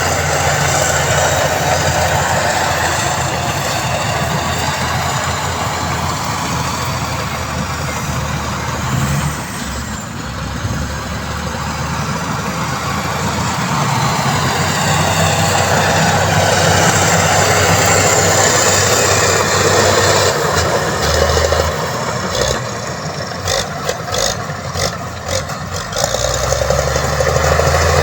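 Heavy diesel truck engine running, its note shifting up and down, with a spell of sharp clicks and knocks near the end.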